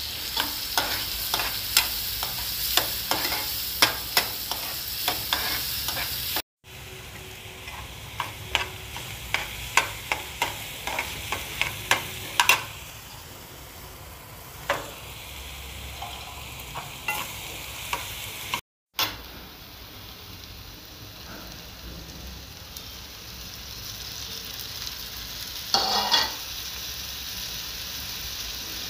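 Chopped onions and garlic frying in butter in a steel pan, sizzling steadily while a steel ladle stirs them and clicks and scrapes against the pan, most often in the first few seconds. Later the sizzle carries on with little stirring.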